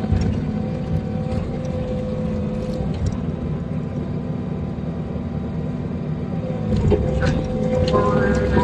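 Diesel engine of a tree processor running steadily under the operator, a constant low drone, with a few knocks and an added higher tone near the end as the machine works.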